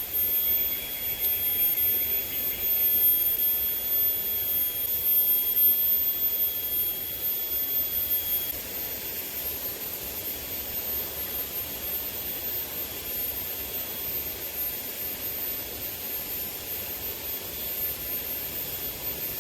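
Steady rushing of a small river's flowing water, somewhat louder in the first half and easing about nine seconds in. A thin, steady high tone sits above it and stops about eight seconds in.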